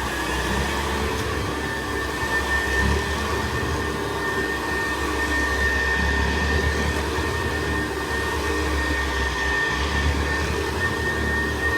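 1960s Hoover Senior 652A upright vacuum cleaner running steadily just after being switched on: a steady high motor whine over a low hum. The brush roll is turning on its old bearings, which the owner calls quite noisy and not very smooth.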